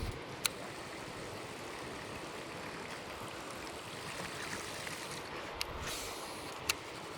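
River water rushing and rippling steadily, with a few short sharp clicks about half a second in and twice near the end.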